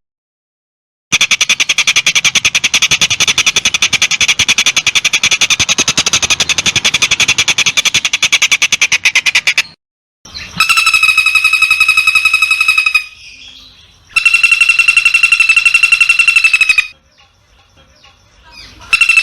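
Songbird calls edited into a master track for training long-tailed shrikes: a long, rapid, rattling trill, then a higher, buzzy trill repeated three times in identical phrases of about two and a half seconds. Each phrase starts and stops abruptly.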